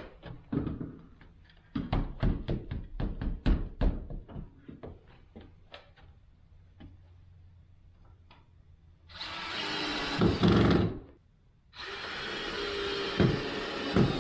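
A quick run of sharp knocks and taps in the first several seconds, up to about four a second, then two longer bursts of rushing noise, one about nine seconds in and one starting about twelve seconds in.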